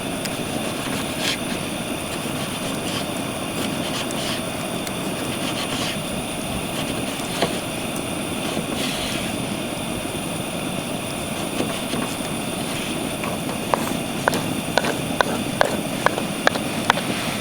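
Wood fire burning steadily in a Picogrill brazier, a constant low rush with scattered crackling pops. A quick series of sharp clicks comes near the end.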